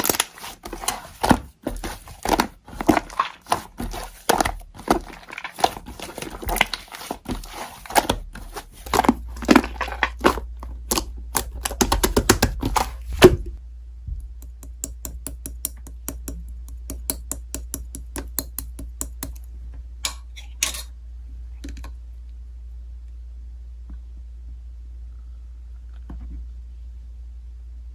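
Slime squeezed, pressed and poked by hand, making quick wet clicks, crackles and pops, dense and busy at first, then sparser and fainter after about 13 seconds, stopping a little past 20 seconds. A steady low hum sits underneath from about 9 seconds in and is all that is left near the end.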